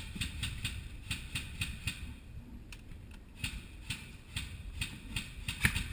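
A rapid series of sharp clicks, about five a second for the first two seconds, then sparser and uneven, over a low rumble.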